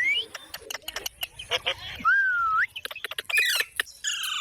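Pet parrots calling: short chirps and clicks, a clear whistled note that rises and falls about two seconds in, then harsh squawks near the end.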